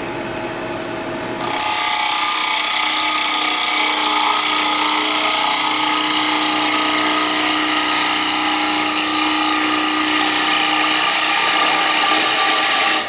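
Wood lathe spinning a bowl, then about a second and a half in a carbide cutter on a hollowing tool bites into the wood: a loud steady cutting hiss with a ringing tone, held evenly with no chatter.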